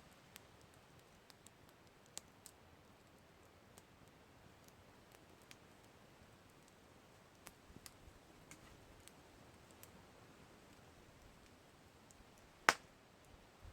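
Campfire crackling: scattered small pops and ticks over a low hiss, with one loud sharp crack near the end.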